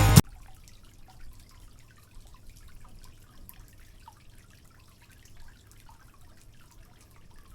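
Faint water trickling and dripping, many small irregular drips.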